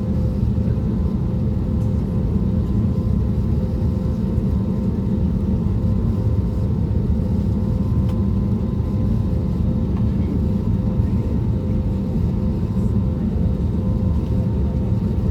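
Steady cabin noise inside an Airbus A320neo: the CFM LEAP-1A26 engines and airflow make an even low rumble, with two faint steady tones above it and no change in pitch or level.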